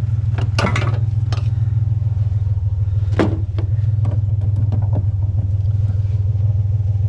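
Vehicle engine idling, a steady low rumble, with a few sharp knocks in the first second and a louder one about three seconds in.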